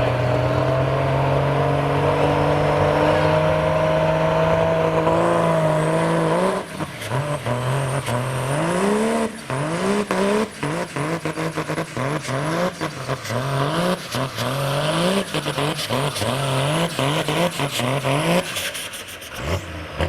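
Hot farm class pulling tractor's diesel engine at full throttle under the load of the sled, its pitch climbing slowly. About six seconds in, the revs start surging up and dropping back over and over, more than once a second, as the tractor goes rough and the driver fights for control. The engine sound falls away near the end.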